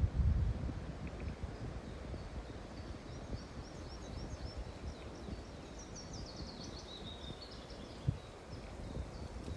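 A small songbird singing a run of quick, high chirps from about three seconds in, with a falling trill in the middle, over a low rumbling outdoor noise that is loudest at the very start. There is a single soft knock near the end.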